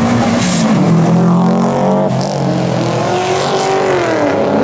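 A car engine revving hard as it pulls away, its pitch rising, dropping sharply about two seconds in with a gear change, then climbing again and falling near the end.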